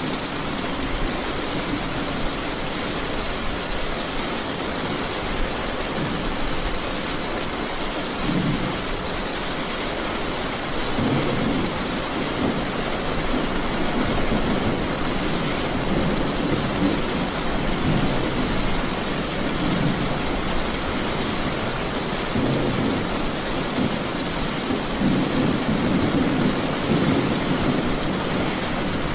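Steady rain with rolling thunder rumbling low, coming in swells from about a quarter of the way in.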